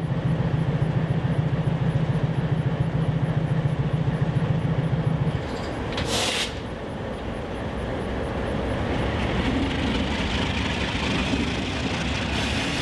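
Alco C420 diesel locomotives running, their engine hum dropping about five seconds in. A short, loud hiss of released air follows about a second later, and the engines then run on more quietly.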